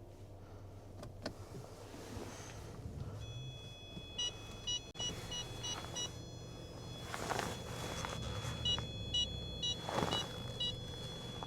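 Rapid electronic beeping, about three beeps a second, in two runs over a steady high tone and a low hum, with two short rushing swells in the gap and near the end.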